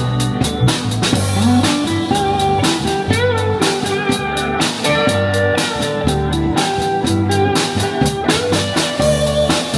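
Instrumental rock music: a drum kit keeps a steady beat under bass and a lead guitar line with bent notes.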